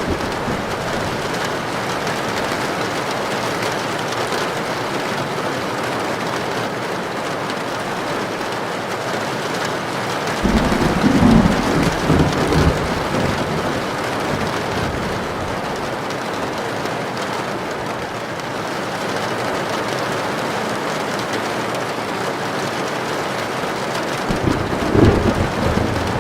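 Heavy rain falling steadily on a tin roof, with two rolls of thunder: one about ten seconds in and a shorter one near the end.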